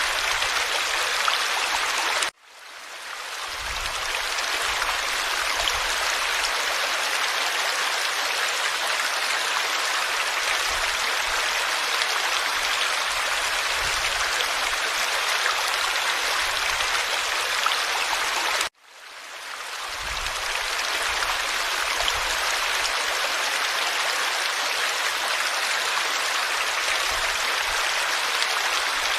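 Forest stream flowing over stones, a steady rushing and babbling of water. It cuts out abruptly twice, about two seconds in and again near two-thirds of the way through, then fades back in each time, as at an edit join.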